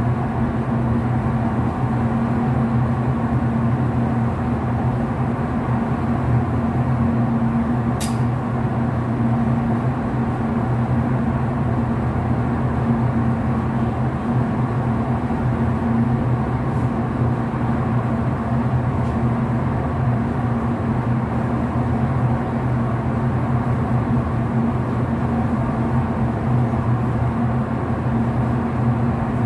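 Steady electrical hum of elevator machinery, low and unchanging, with a single sharp click about 8 seconds in.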